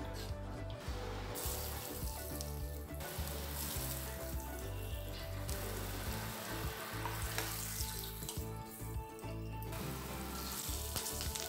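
Cumin seeds and chopped garlic sizzling in hot oil in a pan. The hiss drops away briefly a few times.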